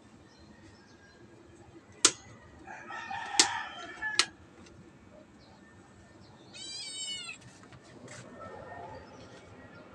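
Bird calls: a brief call a little under three seconds in and a short call that wavers in pitch about seven seconds in. Three sharp clicks come between two and four seconds in.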